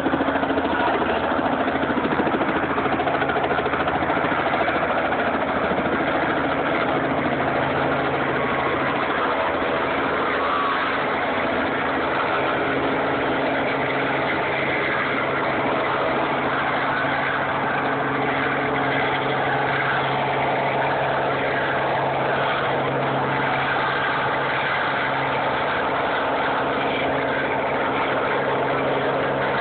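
An engine running steadily at a constant speed: a loud, even drone with a steady low hum that does not rise or fall.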